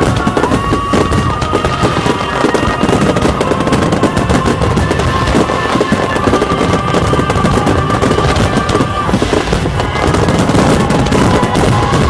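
Large fireworks display: a dense, rapid barrage of bangs and crackles from many shells and fountain effects bursting at once, without a break.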